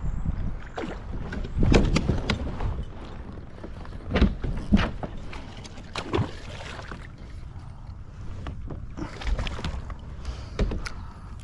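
Irregular knocks and clunks on a kayak, over a low rumble of wind and water on the microphone, while a hooked fish is being played.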